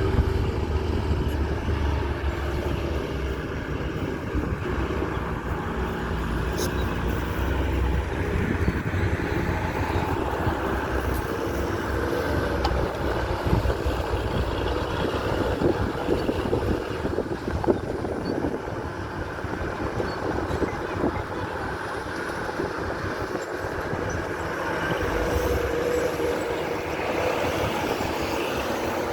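Diesel engines of heavy earthmoving machinery, an excavator and dump trucks, running steadily under load, with an irregular metallic clatter throughout.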